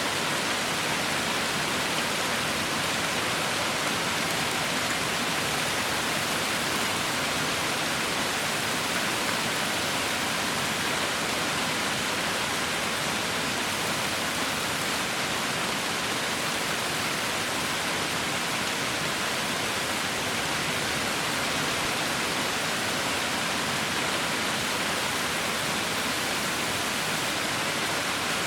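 Heavy rain falling in a steady, even hiss with no distinct drops or breaks.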